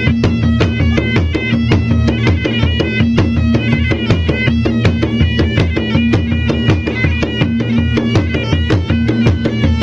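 Traditional Bugis-Makassar gendang drums beating a fast, dense rhythm, with a reedy wind instrument playing a melody over a steady drone.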